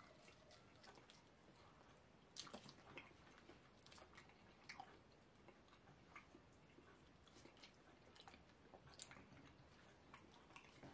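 Faint chewing and soft, wet mouth and finger clicks of people eating fufu and slimy okro soup by hand, scattered irregularly, with slightly louder clicks about two and a half seconds in and near nine seconds.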